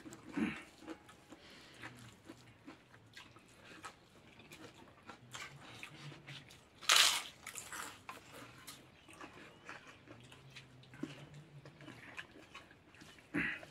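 A person chewing rice and smoked pork, eaten by hand, close to the microphone. There are many small wet clicks from the mouth, a louder burst about seven seconds in and another near the end.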